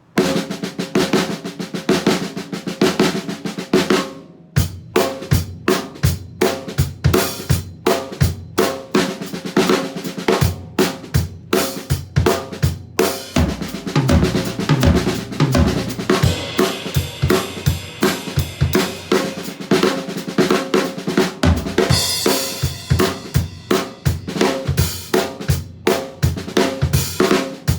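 Acoustic drum kit played solo. It opens with about four seconds of fast, dense snare strokes in six-stroke roll patterns, with no bass drum. After a brief break, bass drum joins from about four and a half seconds in, as a swung groove with fills and cymbal crashes.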